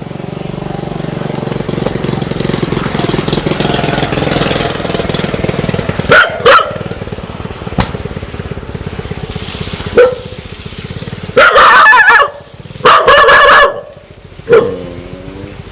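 Aggressive dog barking: a couple of sharp barks about six seconds in and another near ten, then two long, loud barking outbursts in quick succession. A shorter call with falling pitch follows near the end.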